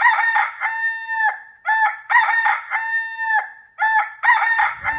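A rooster crowing cock-a-doodle-doo three times in a row, each crow a few short notes ending in a long held note.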